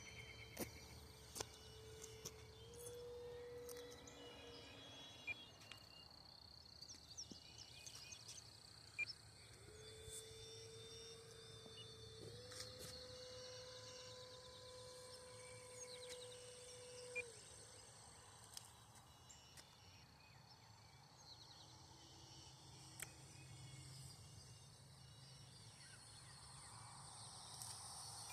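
Faint, distant hum of an electric RC warbird's motor and propeller, heard twice for several seconds and stepping up in pitch each time. Faint insects chirp in the background.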